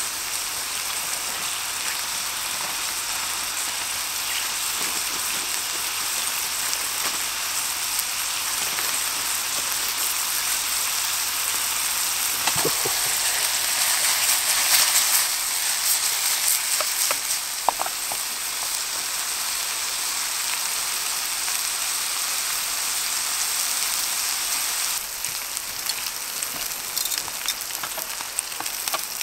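Burgers sizzling steadily in a frying pan; the sizzle grows louder about halfway as sliced red onion is added to the hot pan, with a few light clicks of tongs and pan being handled, then settles back.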